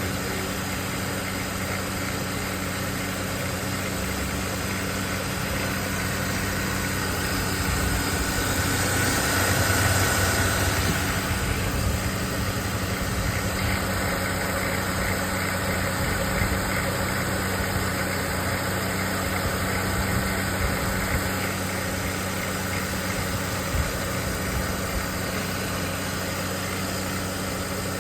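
Engine of a 2008 Mercedes-Benz E220 idling steadily, with a slight swell in loudness about ten seconds in.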